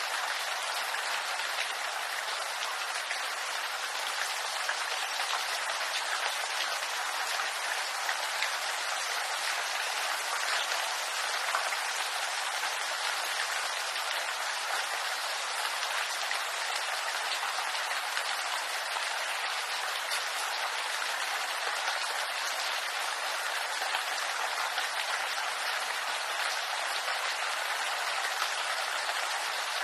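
Steady rain pattering on bamboo leaves: a dense, even hiss of many small drop impacts, with no change in intensity.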